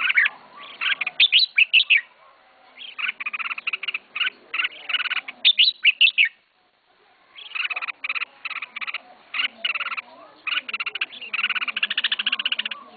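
Red-whiskered bulbul singing and chattering in runs of quick, rapidly repeated notes, with a short break about six and a half seconds in.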